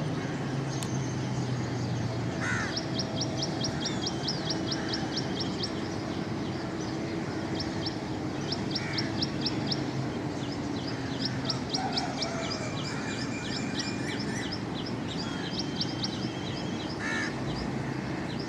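Birds calling: repeated runs of rapid high chirps, about eight a second, with a few lower, harsher calls now and then over steady background noise.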